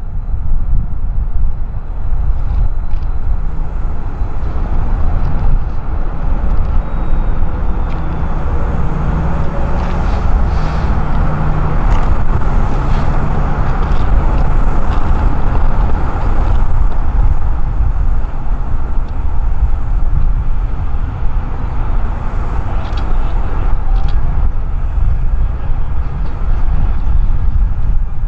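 Train rolling past with a steady heavy rumble, a low diesel engine hum for a while in the middle and a few scattered clicks, with wind buffeting the microphone.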